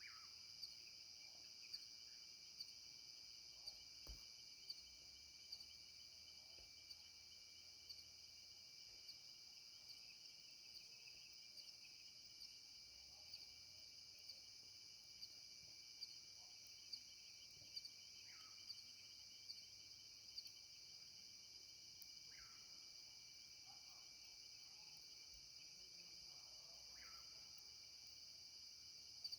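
Faint, steady, shrill chorus of night insects, with a sharper chirp repeating about once a second. Four short calls that fall in pitch come in the second half.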